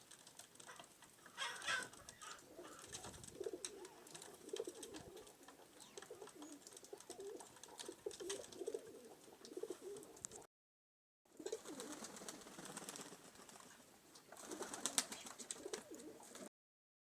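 Pigeons cooing, a low wavering murmur, with scattered sharp taps of beaks pecking at feed.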